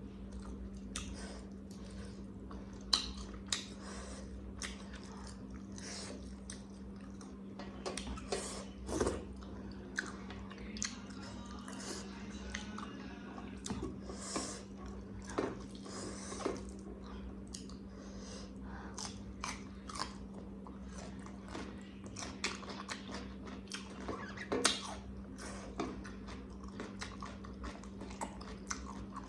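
Close-up mouth sounds of a person eating: chewing and biting, with many irregular short wet clicks and an occasional crunch. A steady low hum runs underneath.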